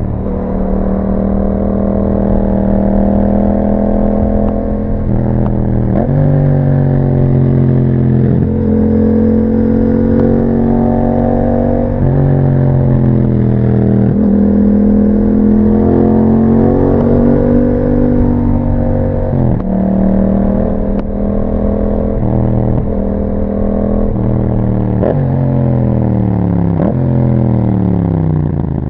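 A 2021 Yamaha MT-07's parallel-twin engine running through an Akrapovic exhaust with dB killer while riding, revving up and shifting through the gears again and again. Near the end the revs fall in steps through several quick downshifts.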